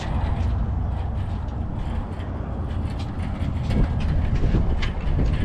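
A vehicle engine running steadily with a low rumble, and a few light clicks over it.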